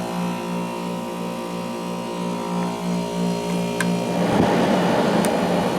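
Amana CoolZone window air conditioner running, its rotary compressor and fan giving a steady, slightly pulsing hum. About four seconds in, a louder rushing noise joins the hum, with a few faint clicks.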